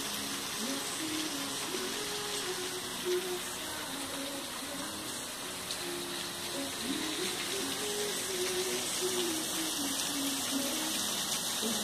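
Heavy tropical-storm rain pouring down in gusting wind, a steady hiss. A faint wavering pitched sound runs underneath.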